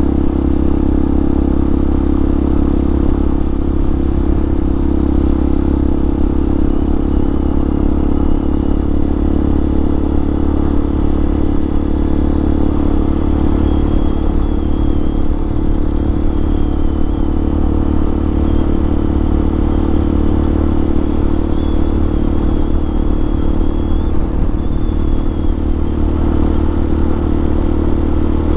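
Hawk 250 dual-sport motorcycle's single-cylinder engine running at a steady pace while riding, with a faint, thin, wavering high whine through the middle.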